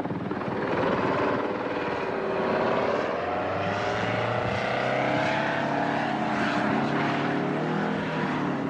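Tiltrotor aircraft (V-22 Osprey prototype) in flight: its turboshaft engines and proprotors drone continuously, and the pitch wavers and slides up and down as the rotors change speed.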